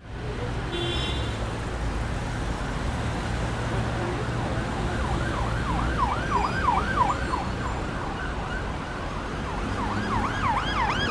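Emergency vehicle siren in a fast yelp, rising and falling several times a second, heard from about five seconds in and again near the end, over a steady low rumble.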